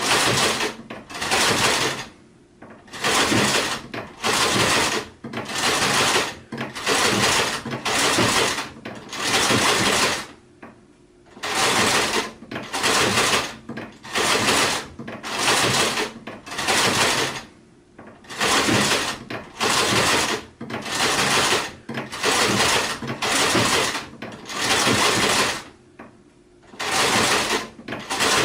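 Sewing machine stitching in short runs of under a second each, starting and stopping about once a second, with a longer pause about ten seconds in.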